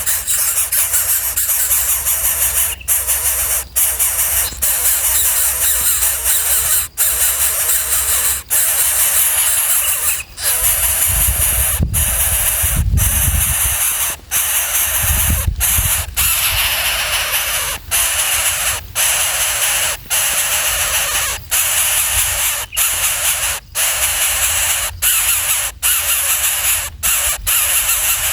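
Baby birds giving harsh, hissing begging calls almost without pause, broken by many brief gaps, with a low rumble twice near the middle.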